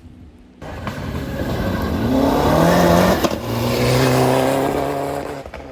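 Rally car engine accelerating hard: the pitch climbs for a couple of seconds, drops about three seconds in as it changes up a gear, then pulls again and fades away.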